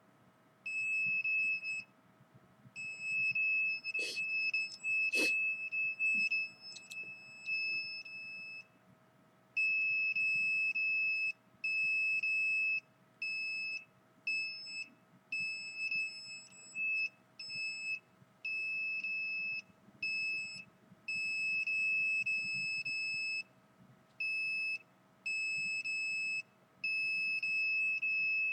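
Electronic meter's alarm sounding a steady high-pitched tone that switches on and off in irregular stretches, from under a second to a few seconds long. Two sharp clicks come about four and five seconds in.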